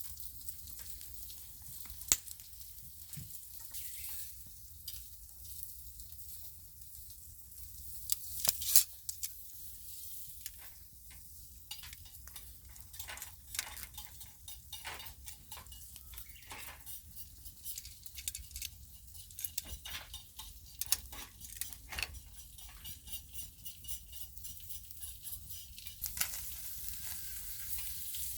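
Clams sizzling on a grill net over a wood fire, a steady hiss with sharp crackles and pops throughout, the loudest a few seconds in and near the end.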